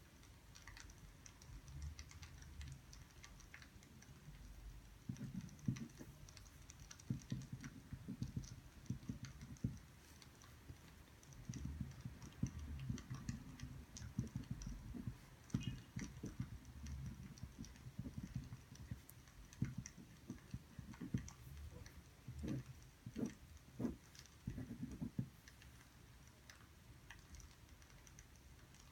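Soft, irregular tapping and knocking at a desk in bursts, with faint scattered clicks: the small handling sounds of someone studying.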